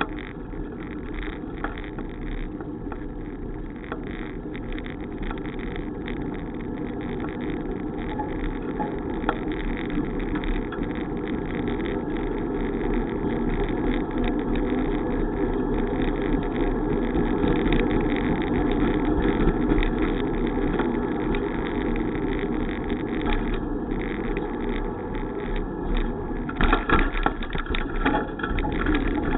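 Steady rumbling noise of a bicycle ride, wind on the microphone mixed with tyre and road noise, swelling a little toward the middle. Several sharp crackles come near the end.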